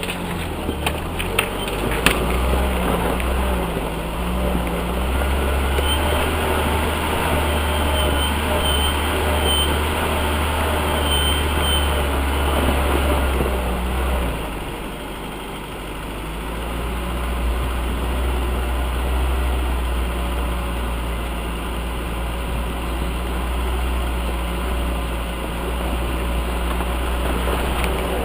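UAZ off-road vehicle's engine running, with a few sharp knocks in the first couple of seconds. Its sound drops away about halfway through, then picks up again.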